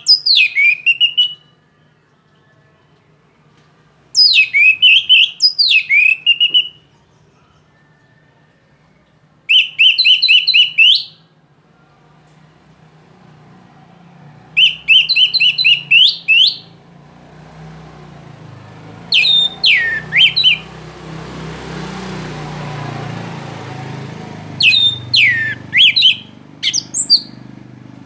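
Orange-headed thrush singing in short, loud phrases of rapid repeated falling notes, the 'trotol' style, with pauses of a few seconds between phrases. A rushing noise swells and fades in the background midway through.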